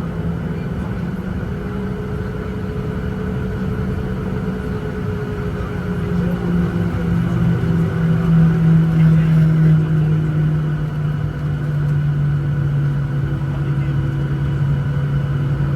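Boeing 737-900ER's CFM56 jet engines at taxi power heard from inside the cabin: a steady hum with low tones that drift slightly in pitch, swelling a little about halfway through as thrust is briefly added.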